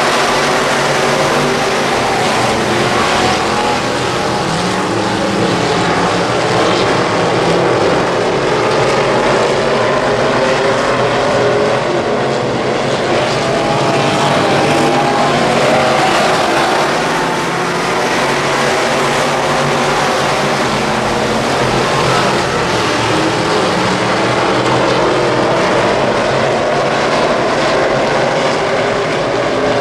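WISSOTA Midwest Modified dirt-track race cars' V8 engines running at racing speed, several engines overlapping, their pitch rising and falling.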